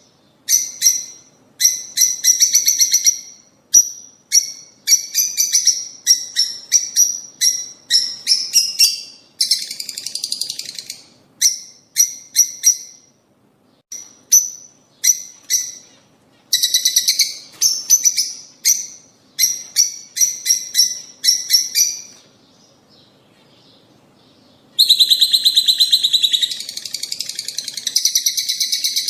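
Lovebirds (rosy-faced and Fischer's) chirping: quick runs of short, sharp, high-pitched chirps, with a lull of a few seconds about three quarters of the way through before dense chattering starts up again.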